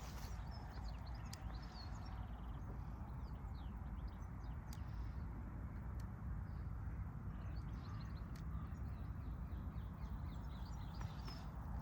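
Small birds chirping and twittering in short calls, over a steady low rumble.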